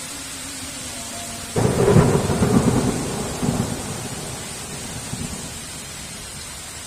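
Thunderclap about a second and a half in, loudest at its start, then rumbling and dying away over the next few seconds, over a steady hiss of heavy rain.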